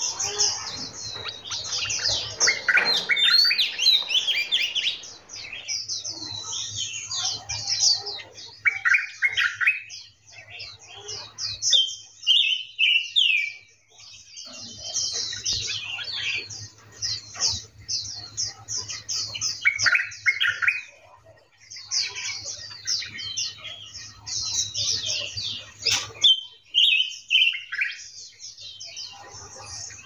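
Many small birds chirping and calling together: a dense run of quick, high chirps, now and then broken by lower, falling notes.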